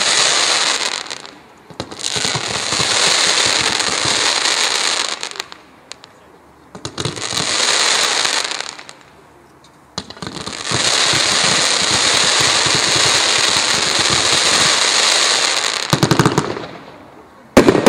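A 182-shot consumer fireworks cake firing crackling comets: dense, loud crackling in four long waves with short pauses between them, and a few sharp bangs near the end.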